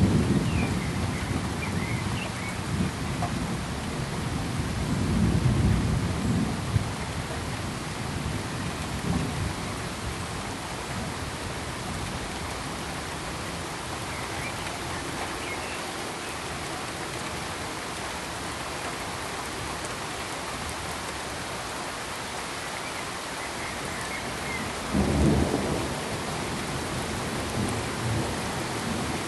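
Steady rain hiss with rolls of thunder: a low rumble at the start, a longer one about five seconds in, and another about 25 seconds in.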